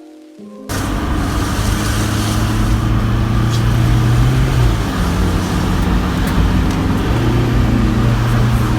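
Car engine running with road noise, cutting in suddenly under a second in. The engine note holds steady, drops about halfway through, then rises again near the end.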